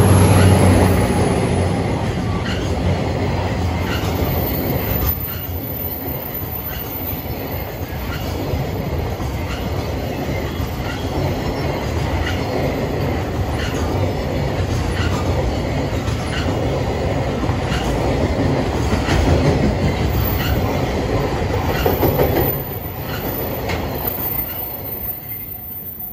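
A DD200 diesel-electric locomotive passes close by with its engine humming, followed by a long train of container wagons rolling past with the wheels clicking over the rail joints in a steady rhythm. The noise drops off suddenly near the end as the last wagon goes by, then fades away.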